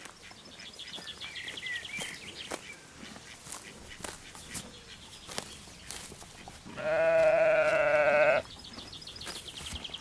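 A sheep gives one long, quavering bleat of under two seconds, about two-thirds of the way through, over soft clicks and rustles.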